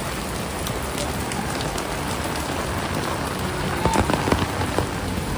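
Heavy rain falling steadily, a dense even hiss of drops on the ground and other surfaces, with a few sharp taps about four seconds in.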